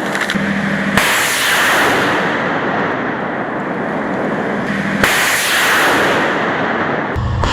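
Rockets launching from a TOS-1A thermobaric multiple rocket launcher: two launches about four seconds apart, each a sharp crack followed by a rushing hiss that fades over a second or so. Near the end a heavy low boom sets in.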